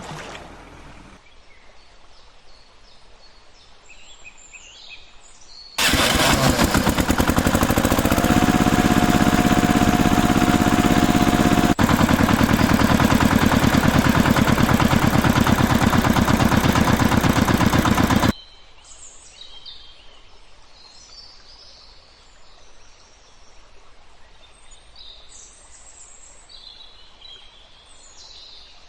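Faint outdoor background with birds chirping, broken about six seconds in by a loud engine running with a fast, even pulse for about twelve seconds. A steady whine sounds in it for a few seconds. The engine cuts off abruptly and the chirping resumes.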